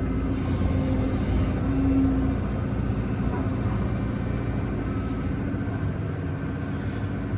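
Excavator's diesel engine running steadily, with no digging strokes, while the machine stands waiting.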